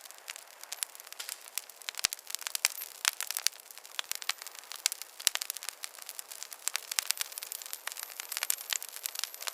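Wood campfire crackling: a dense, irregular run of small snaps and ticks from the burning wood, with a handful of sharper, louder pops scattered through.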